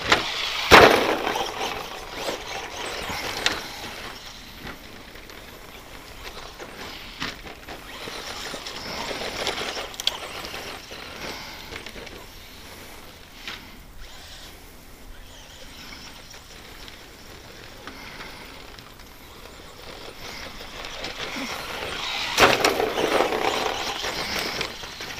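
Stock brushed-motor RC stadium truck running laps on a rough dirt track. Tyre and dirt noise swells each time it passes close, with sharp knocks from landings and chassis slap; the loudest is a hard knock about a second in.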